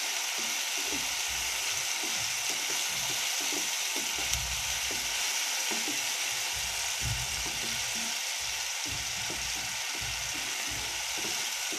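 Chopped onion, garlic and tomato sizzling steadily in hot oil in a non-stick frying pan, stirred with a spatula that scrapes and knocks against the pan now and then. This is the tomato tempering (baghar) for dal, nearly done frying.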